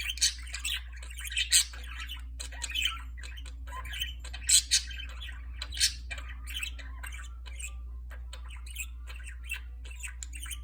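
Budgerigar singing: a rambling warble of chirps and chatter broken by loud, sharp squawks, the loudest a few seconds in. A steady low hum runs underneath.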